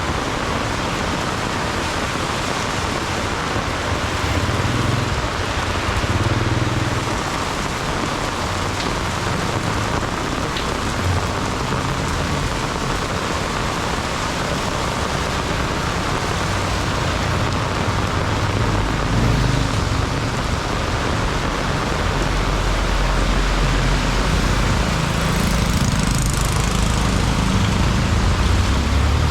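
Heavy rain pouring steadily. Deep low rumbling from passing road vehicles comes in and out, heaviest in the second half.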